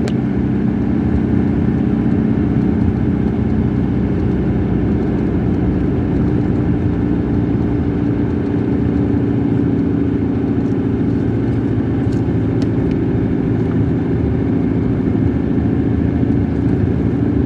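Car driving at a steady speed: a steady drone of engine and road noise with no change in pitch.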